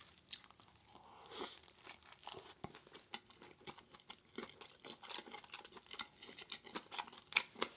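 A person chewing food close to the microphone: a faint, irregular run of small sharp mouth clicks and crackles, with no speech.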